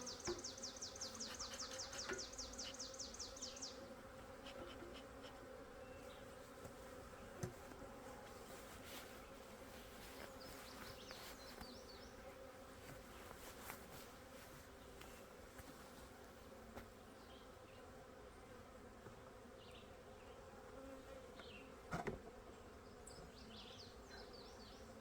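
Faint, steady buzzing of a honey bee colony in an opened hive. A rapid high-pitched pulsing trill runs through the first few seconds, and there are a few light knocks.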